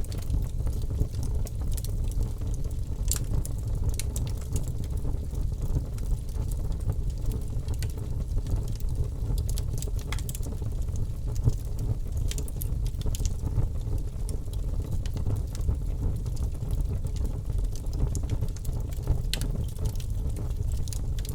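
Wood fire burning in a fireplace: a steady low roar of flames with irregular sharp crackles and pops scattered throughout.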